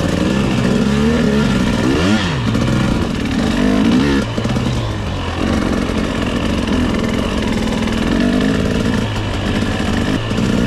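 300cc two-stroke enduro dirt bike engine under way on a trail, its revs rising and falling with the throttle. It dips and climbs sharply about two seconds in, and the revs climb and then drop off about four seconds in.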